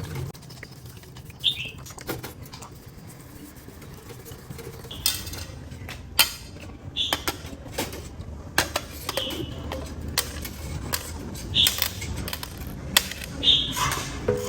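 Irregular sharp metal clinks and knocks, some ringing briefly: small tools and chainsaw parts being handled on a workbench, over a low steady hum.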